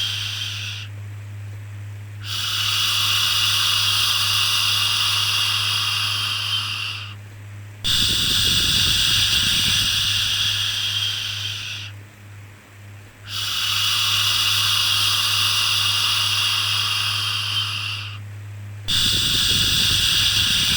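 Repeated long 'shhh' shushing sounds for soothing a baby, each lasting about four to five seconds with a pause of about a second between them, four starting in turn. A steady low hum runs underneath.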